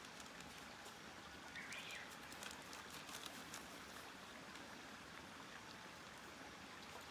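Small campfire crackling faintly, with scattered sharp little pops over a soft steady hiss. A brief high squeak sounds about two seconds in.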